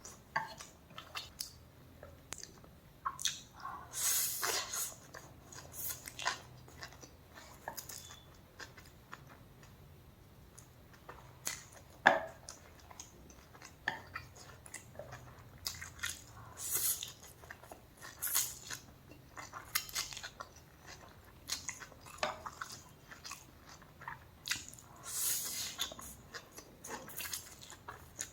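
A person eating close to the microphone: irregular chewing and biting sounds with occasional crunches, and a sharp click about twelve seconds in.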